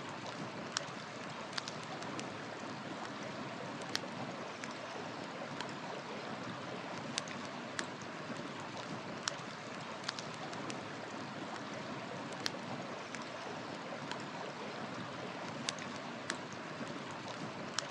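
River water flowing steadily, with a wood campfire crackling over it in sharp, irregular pops.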